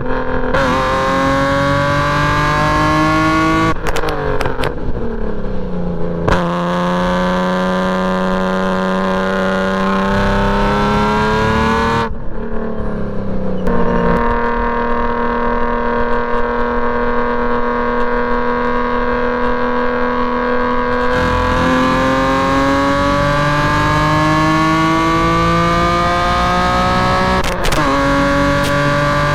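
Straight-piped BMW E46 M3's 3.2-litre inline-six at full throttle on a racetrack, its pitch climbing through the revs, with an upshift about four seconds in and another near the end. In the middle the driver lifts off and the engine holds a steady lower pitch for several seconds before pulling hard again.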